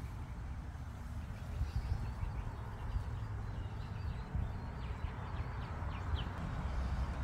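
Faint birds chirping: a quick series of short chirps in the middle and a single rising chirp near the end, over a steady low rumble.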